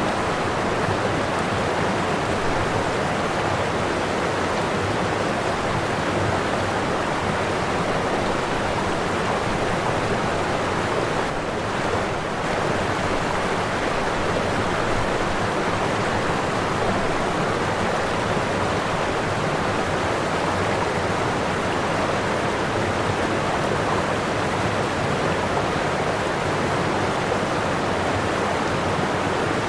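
Waterfall rushing steadily, an even roar of falling water that dips briefly in its highs about twelve seconds in.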